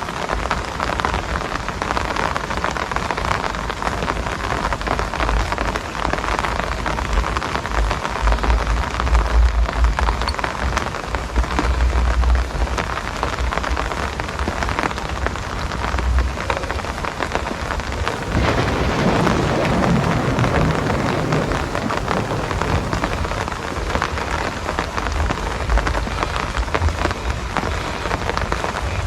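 Steady heavy rain falling, a dense even hiss, with low rumbles swelling under it about a third of the way in and again past the middle.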